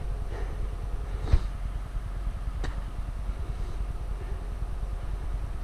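An engine idling steadily with a low rumble, with two sharp knocks about a second apart.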